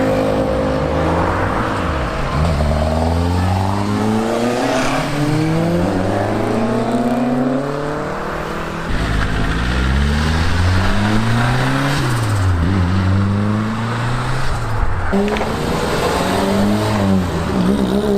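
Modified car engines accelerating away one after another, revving up through the gears in repeated rising sweeps, with a quick rev up and down about twelve seconds in.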